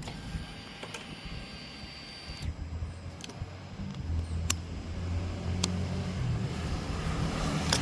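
Ignition switched on on a 2020 Triumph Speed Twin 1200: a faint steady electronic whine for about two and a half seconds, then a few sharp clicks from the handlebar switchgear as the start is tried with the bike still in gear, so the engine does not fire.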